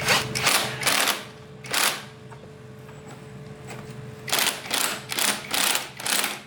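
Rhythmic scraping strokes from a hand tool, about two to three a second, in two runs with a pause of about two seconds between them, over a faint steady hum.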